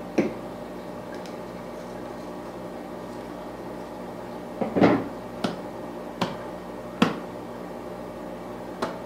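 Sharp clicks and knocks of an aquarium plant pot and its packaging being handled while a plant that won't come out is worked loose. There are about half a dozen separate knocks, the loudest a short cluster about five seconds in, over a steady hum.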